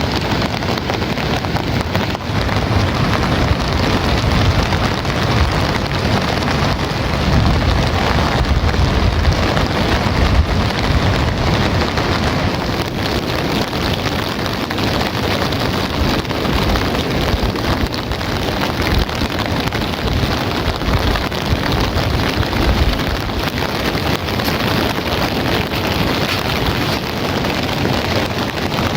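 Heavy rain falling steadily, a dense hiss with a low rumble underneath.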